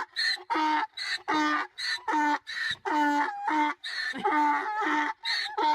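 An animal calling in a fast series of short pitched calls, about two a second, with short high chirps between them.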